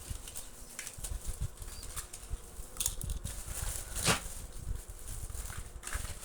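Toy cars being handled and set down, with scattered small clicks, rustling and soft low thumps. A sharper click comes about four seconds in.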